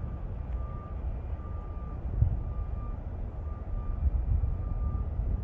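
Low, steady rumble of a freight train running in the distance, with a faint high beep repeating about once a second.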